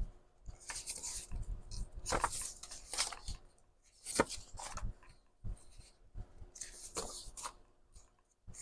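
Sheets of paper being handled and sorted by hand: irregular rustles and swishes of pages sliding over one another, with a few soft taps on the table.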